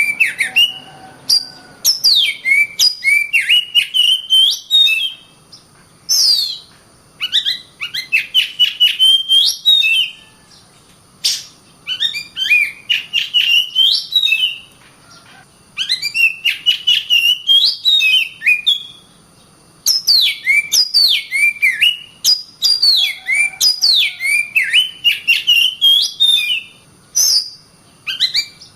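Oriental magpie-robin singing loudly in rapid phrases of sharp, sweeping whistled notes. Each burst runs a few seconds, with short pauses of about a second between them.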